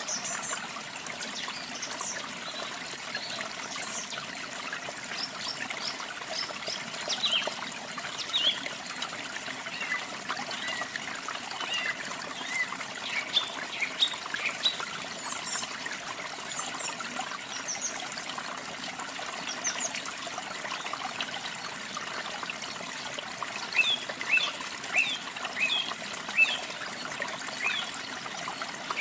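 Water running steadily, with small songbirds chirping over it in short, high notes throughout; a quick run of repeated chirps comes near the end.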